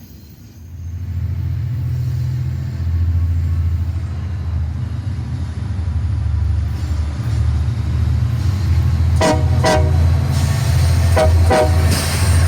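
Low rumble of a passing train building up and holding steady, with two pairs of short horn toots near the end.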